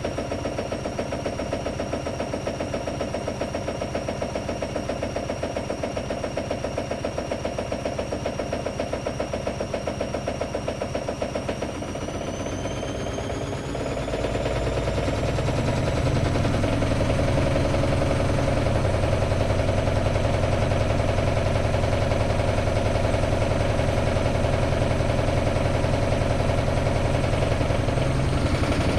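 AEG Lavamat Turbo washer-dryer running with a steady, evenly pulsing drum motor. About twelve seconds in, the motor speeds up with a rising whine and the machine settles into louder, steady fast running, as when it ramps up into a spin.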